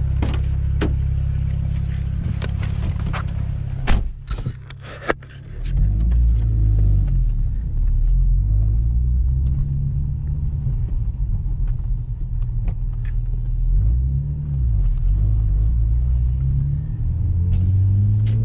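Single-turbo BMW 335i's turbocharged inline-six under hard acceleration: a steady low drone, a few sharp clicks about four seconds in, then the engine note repeatedly climbing and dropping back as it pulls and changes gear.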